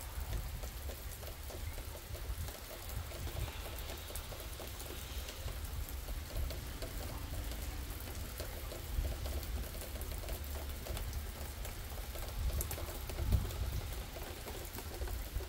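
Rain falling steadily as a thunderstorm moves in, with a low rumble of wind buffeting the microphone.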